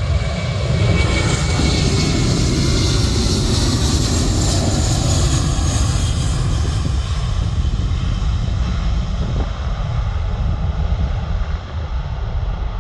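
Jet airliner engines passing close by: a loud, steady rumble with a high whine on top that fades after about seven seconds.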